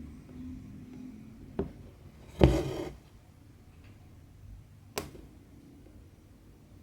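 Quiet hand cross-stitching sounds: a soft tap about one and a half seconds in, a brief rustle near the middle, and a sharp click about five seconds in.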